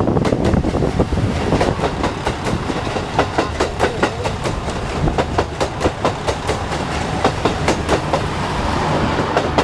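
Diesel railcar train passing close by, its wheels clicking rapidly and repeatedly over the rail joints under a steady running rumble.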